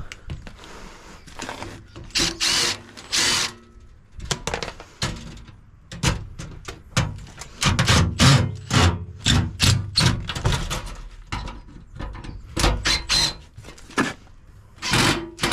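Irregular knocking, banging and clattering of hand tools on a dishwasher's metal and plastic parts as it is taken apart, busiest midway, with one short ringing clank a little later.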